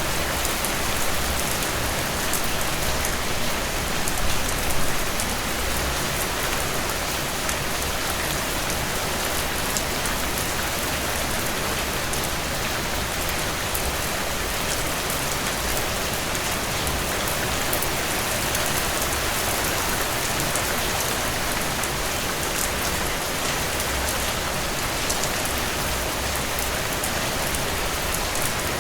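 Heavy rain falling on a tin roof: a steady, unbroken hiss packed with the ticks of individual drops.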